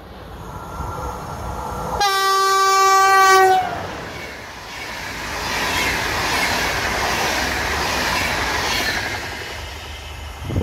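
An EP09 electric locomotive sounds its horn once for about a second and a half as it approaches, the pitch sagging slightly as the blast ends. It then passes at speed with its string of passenger coaches, their wheels and rails rushing and clickety-clacking, before the noise falls away near the end.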